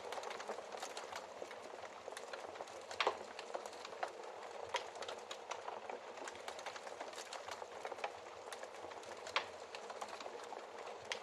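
Wood fire crackling in a fireplace: a steady hiss with irregular snaps and pops, a louder pop about three seconds in and another near the end.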